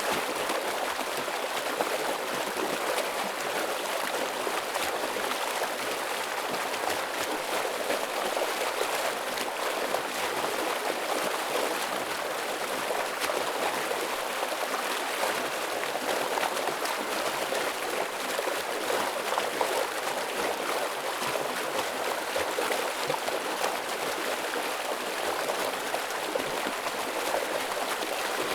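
Heavy stream water flowing steadily over rocks, an even rushing with gurgling.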